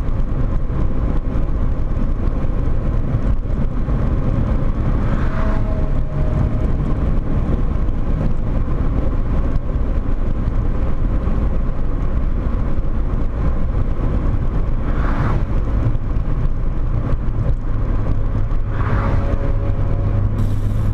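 Volkswagen Corrado 1.8 16V's inline four-cylinder engine running steadily under load at speed, with road and wind noise, heard from inside the car.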